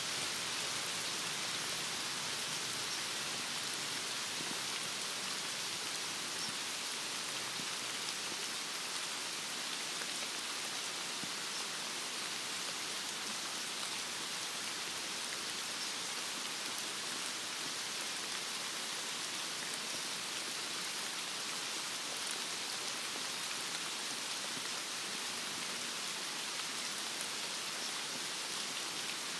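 Heavy rain falling steadily on surfaces, an even hiss with faint pattering drops.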